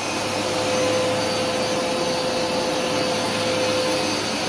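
Hoover SmartWash carpet washer running as it is pushed over carpet: a steady machine noise with a constant mid-pitched tone that does not change.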